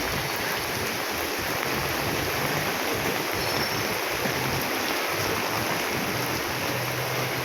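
Rain falling in a steady hiss.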